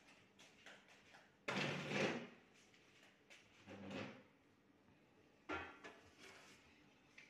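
Kitchen things being handled: a few separate knocks and scrapes, the loudest a longer scrape about a second and a half in, and a sharp knock with a brief metallic ring about five and a half seconds in, as a pan is fetched and set out.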